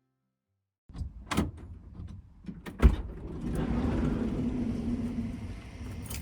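Clicks and knocks on a Toyota HiAce van, with a heavy door thud about three seconds in, then a steady rumble with a low hum.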